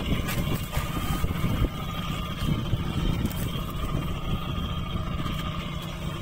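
A small engine running steadily on a fishing boat, with wind buffeting the microphone.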